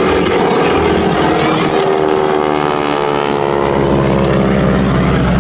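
Propeller aircraft flying past, its engine note dropping in pitch as it goes by about two to three seconds in, then holding at a lower steady note.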